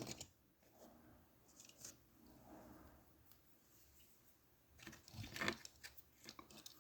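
Near silence with faint clicks and rustling from handling small die-cast toy cars, a short cluster of them about five seconds in.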